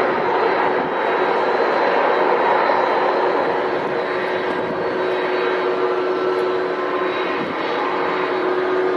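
Jet engines of a Boeing 747-400 freighter: a loud, steady rushing noise with a held tone and a faint high whine, slowly easing off.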